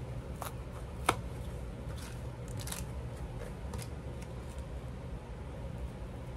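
Scattered light clicks and handling noises from paper and craft supplies being moved about, with one sharp tap about a second in, over a low steady hum.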